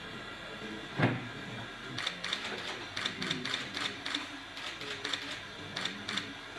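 A single knock about a second in, then a run of quick, irregular sharp clicks, several a second.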